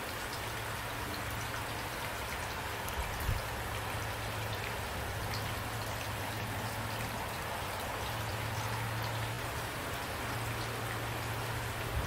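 Steady rain, with individual drops ticking. A brief low thump comes about three seconds in.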